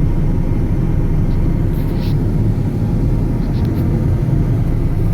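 Snow plow truck running with a steady low rumble.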